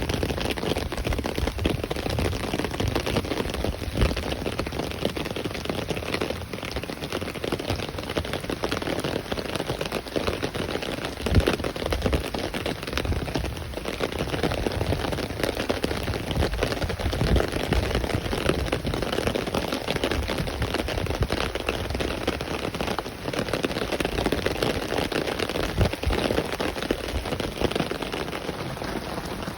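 Steady light rain, a dense patter of drops hitting an umbrella.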